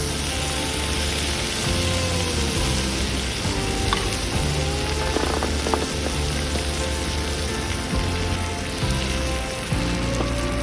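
Food frying in a pan, a steady sizzle, with background music over it.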